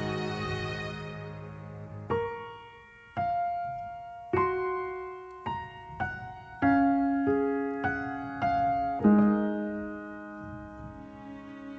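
Soft solo piano music: a slow, sparse melody of single notes, each struck and left to ring and fade, following a sustained chord that dies away at the start.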